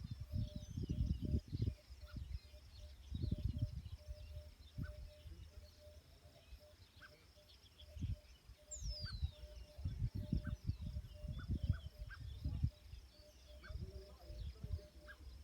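Outdoor ambience: small birds chirping and twittering on and off, over irregular low rumbles that come and go.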